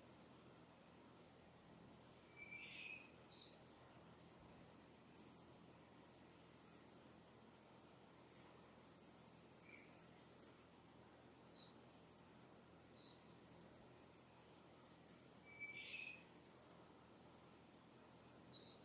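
Distant small birds singing: a run of short high-pitched chirps, one or two a second, then two longer high trills, with a couple of lower chirps in between, over a faint steady outdoor hiss.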